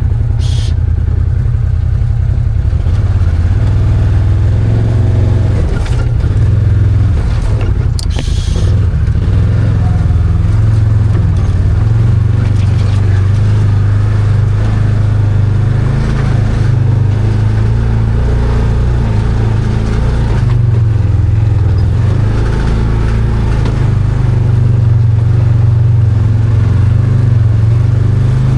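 Arctic Cat Wildcat 1000 side-by-side's V-twin engine running steadily under way, its pitch and level shifting slightly with the throttle. There are brief knocks near the start and about eight seconds in.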